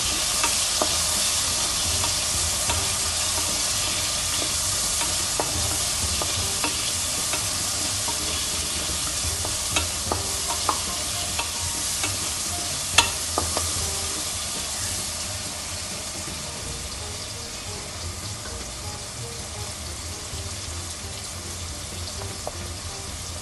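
Chopped onions and whole spices sizzling in oil and ghee in a pressure cooker while being stirred, with scattered light clicks and one sharper knock about halfway through. The onions are frying on a medium flame toward light pink, and the sizzle eases a little in the second half.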